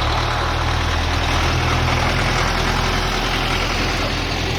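A vehicle engine running steadily at a constant speed, with a low hum.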